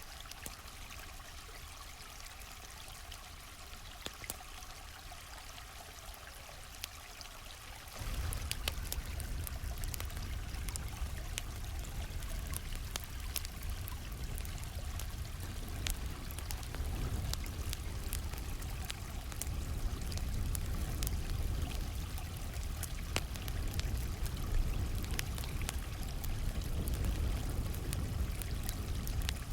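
Stream flowing steadily, with a campfire crackling in short, sharp pops over it. About eight seconds in, the water gets louder with a deeper rumble, and the crackles come more often.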